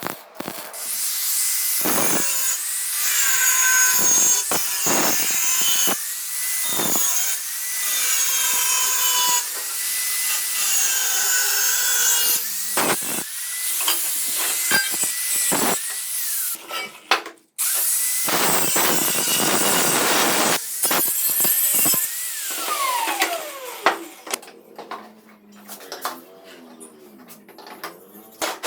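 A power tool cutting, its motor whine sagging each time it bites and recovering between passes, over and over for about twenty seconds. Near the end it gives way to lighter, intermittent scraping.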